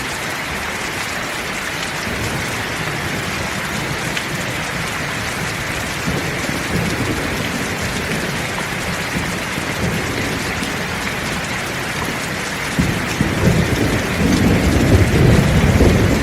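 Heavy rain falling steadily in an even hiss. About three-quarters of the way through, a low rumble of thunder builds and grows louder toward the end.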